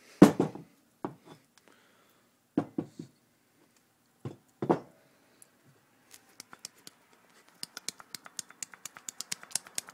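A worn front wheel hub bearing from a Jeep Grand Cherokee being worked back and forth by hand. First come a few separate clunks from its play, then a quickening run of small clicking, sucking noises, several a second, as grease is drawn in and out of the bearing: the sign of a badly worn bearing.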